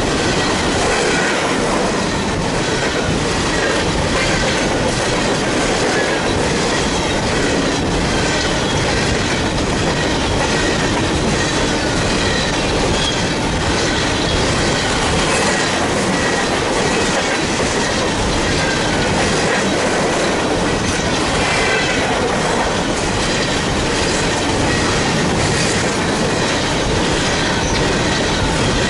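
Union Pacific coal train's cars rolling steadily past, wheels clacking over the rail joints, with faint squealing from the wheels now and then.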